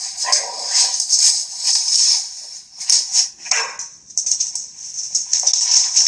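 Background music with a rattling shaker rhythm, over which an animal gives a few short calls; the clearest slides down in pitch about three and a half seconds in.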